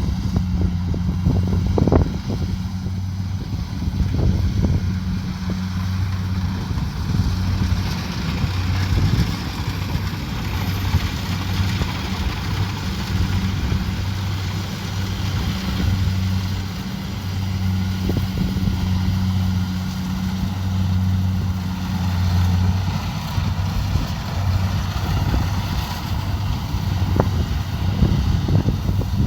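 Kubota DC70 Pro combine harvester's diesel engine running steadily, a constant low hum with a rushing hiss above it. A few sharp knocks stand out, the clearest about two seconds in and another near the end.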